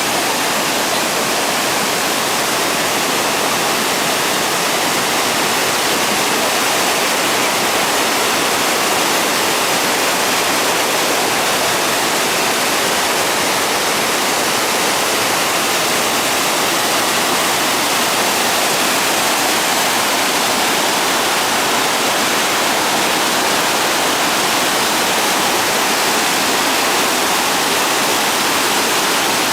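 Ryūzu Falls' cascading water rushing in a loud, steady, unbroken roar of white noise, stronger in the high range than in the low.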